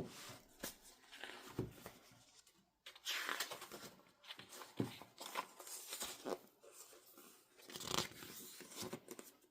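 Paper and plastic album packaging rustling and crinkling as it is handled, in short irregular bursts with a few light taps.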